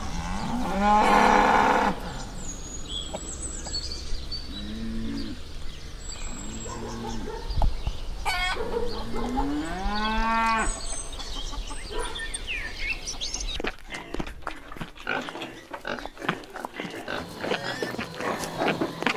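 Cattle mooing: a long loud moo about a second in, two short moos, and another long moo that rises and falls around ten seconds. From about fourteen seconds, piglets grunting and smacking as they suckle at a sow.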